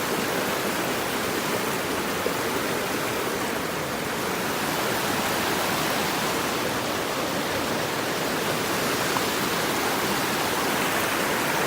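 Creek water rushing: a steady, even rush of running water.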